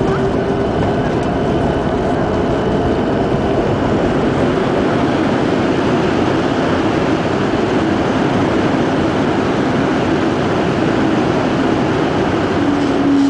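Airliner cabin noise during landing: a loud, steady roar of the engines and rushing air, with an engine hum that settles lower in pitch near the end.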